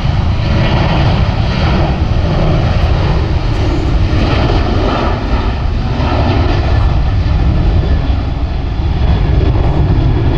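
Jet airliner engines, loud and steady with a deep low rumble.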